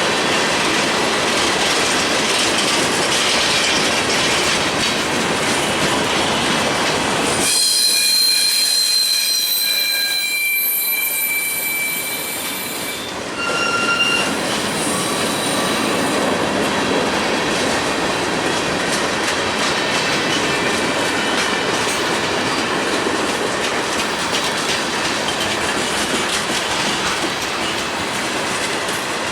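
Freight cars of a manifest train rolling past, with a steady rumble and clatter of steel wheels on the rails. From about a quarter of the way in, high piercing wheel squeal sounds for several seconds, with a short second squeal just after.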